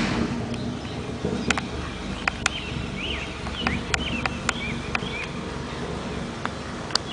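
A swarm of bees humming steadily around an active hive. Small birds chirp repeatedly in short calls throughout, and there are several sharp clicks.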